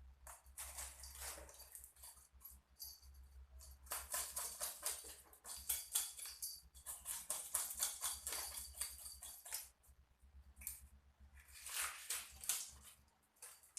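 Knife scraping a fish in quick repeated strokes, in several runs separated by short pauses.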